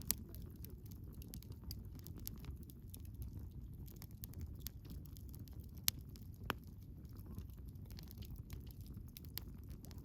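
Wood campfire burning: a steady low rumble of flames with irregular crackles and a few sharper pops, one right at the start and two louder ones a little before and after the six-second mark.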